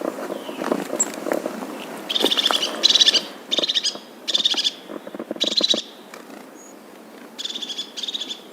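A bird calling in a series of short, rapid chattering notes, each about half a second long and repeated every second or so. Before the calls start, about the first two seconds hold scattered knocks and rustling.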